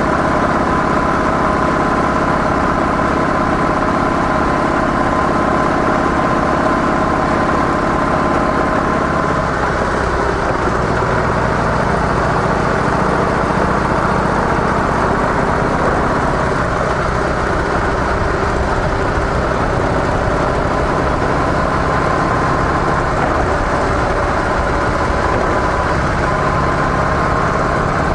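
Harley-Davidson CVO Softail Deluxe's air-cooled V-twin running through stock mufflers, a steady engine note that shifts pitch a few times, about a third of the way in, past the middle and near the end.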